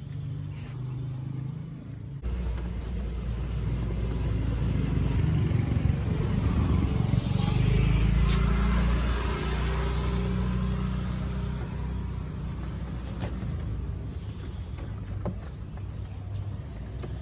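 A motor vehicle's engine running, with a low hum that jumps up abruptly about two seconds in, builds to its loudest in the middle, then slowly eases off.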